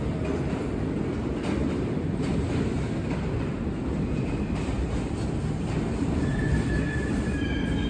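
New York City subway train rumbling along the track at the station, with scattered clicks. High-pitched wheel squeal comes in from about six seconds in.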